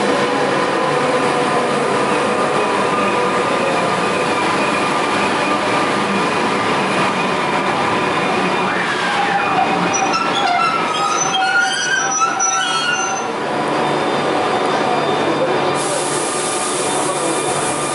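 SBB InterCity train hauled by a Re 460 electric locomotive rolling slowly along the platform as it arrives. About halfway through the wheels and brakes squeal in several wavering high tones as it brakes to a stop. A steady hiss comes in near the end.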